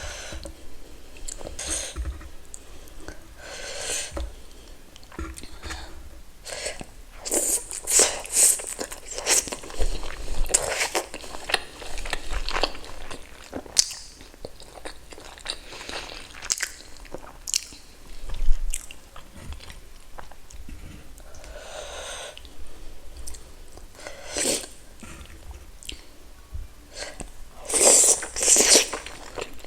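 Chewing and biting into food, with irregular wet clicks and smacks and short crunchy bursts, busiest about a third of the way in and again near the end.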